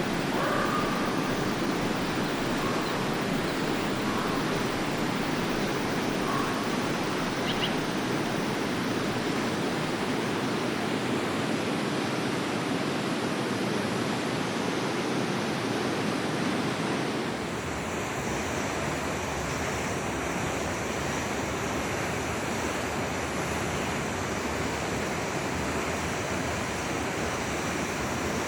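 Forest stream water rushing steadily. About two-thirds of the way through, the rush turns slightly deeper and fuller. A few faint bird chirps come in the first several seconds.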